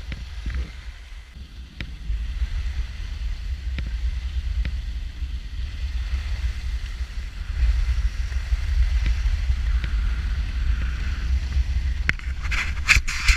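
Wind buffeting the microphone while skiing downhill, over a steady hiss of skis sliding on snow. Near the end come several sharp scrapes of ski edges biting the snow in turns.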